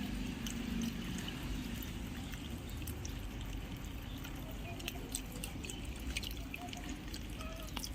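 Water pouring and trickling from a watering can onto plants, with scattered small drips.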